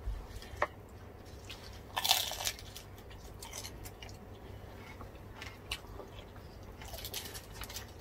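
Crunching and chewing of crispy deep-fried pork skin being eaten, with one louder crunch about two seconds in and scattered smaller crackles.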